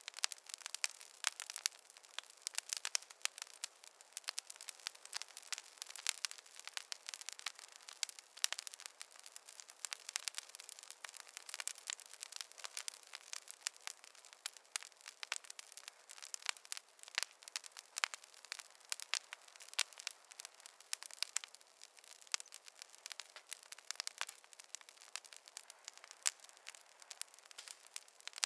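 Wood fire crackling in a fireplace: dense, irregular snaps and pops over a faint hiss, with no low roar of flame.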